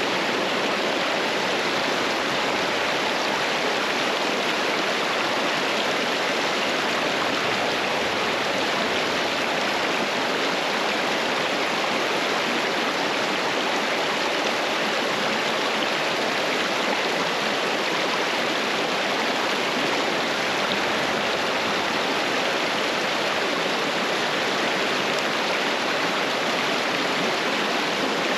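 Creek water rushing, a steady, unbroken noise of flowing water.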